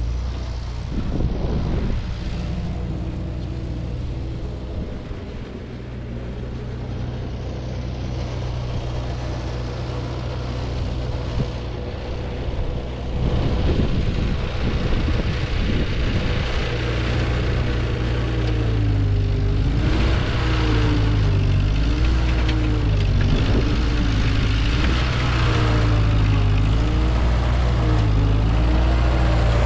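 Ford 9N/2N tractor's four-cylinder flathead engine running under load while pulling a Ferguson cultivator through the soil. It gets louder about halfway through, and in the second half its speed rises and falls repeatedly as the tines bite.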